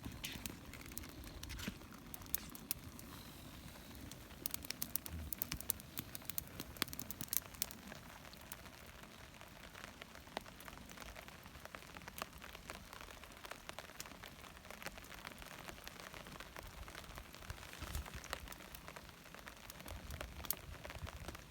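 Rain pattering steadily, with many scattered sharp clicks and crackles.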